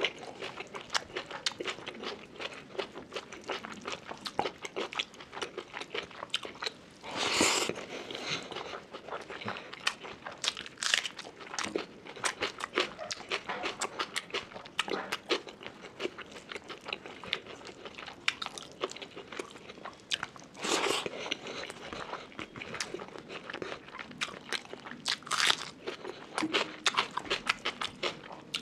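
Close-miked eating of rice and curry by hand: steady chewing and crunching with many small clicky mouth sounds, and three louder bites, about a quarter of the way in, about three quarters of the way in and again near the end.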